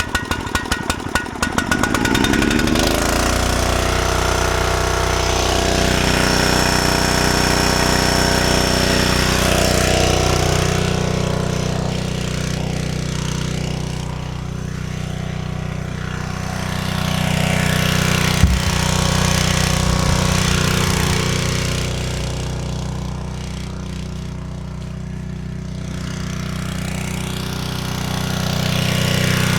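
Log splitter's small gasoline engine running, freshly refuelled after running dry: uneven for the first second or two, then settling into a steady run. A single sharp click sounds about 18 seconds in.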